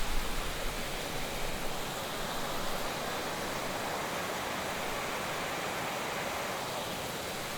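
Heavy rain falling steadily, an even dense hiss of drops. A brief low rumble in the first second.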